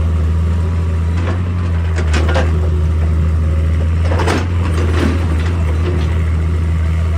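Excavator's diesel engine running steadily with a deep drone, while several brief harsh scraping crunches break in, about four times in the first five seconds.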